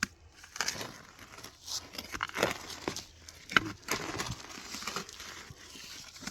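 Hand digging tool cutting and scraping into wet soil and roots: irregular crunching and tearing strokes, with a few sharper clicks as it strikes.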